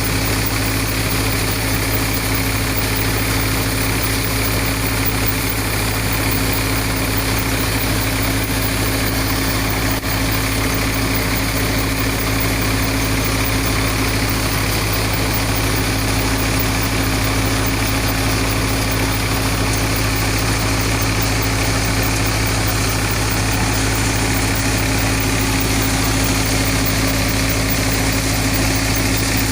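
Sonalika tractor's diesel engine running at a steady, unchanging speed, with a constant hum over a wide machinery noise.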